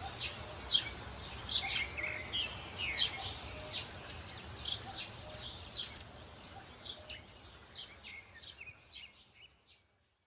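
Small birds chirping in many short, quick, downward-sliding calls over a low steady background, fading out near the end.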